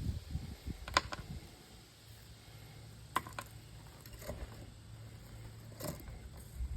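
A few sharp clicks and knocks, five or so spaced a second or two apart, from metal parts and tools being handled while an old television set is taken apart for scrap, over a steady low hum.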